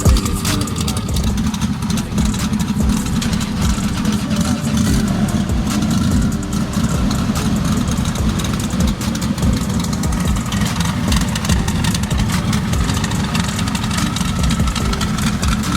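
Modified turbocharged race car engine idling with an uneven, pulsing note and no hard revving.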